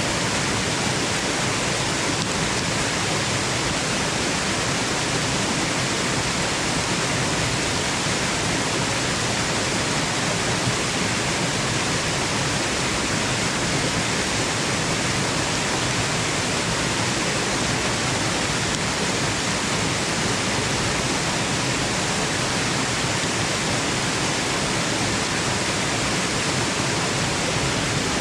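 Steady rushing of a waterfall, an even, unbroken noise with no changes.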